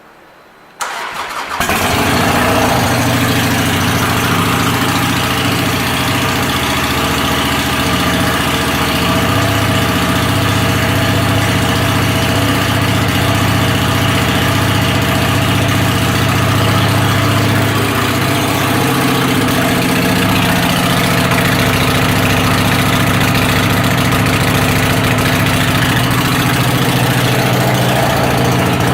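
A 2017 Harley-Davidson Sportster Iron 883's air-cooled V-twin is cranked by its starter a little under a second in, catches and then idles steadily and loudly. The exhaust is loud enough that the seller guesses the pipes have been cored out.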